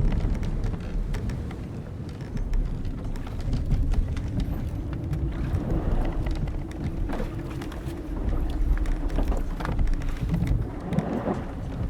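Old wooden sailing ship at sea: a steady low rumble of wind and waves, with the hull timbers and rigging creaking and ticking throughout. A long creak holds one pitch through the middle.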